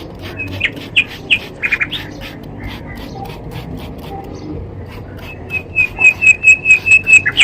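Bird chirping: a few scattered chirps, then a fast, even run of about nine loud chirps near the end.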